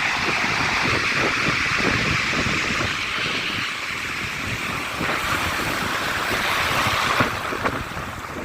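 Sea waves washing on the shore with wind buffeting the phone's microphone in gusts, a steady hiss over irregular low rumbling, with a brief tap about seven seconds in.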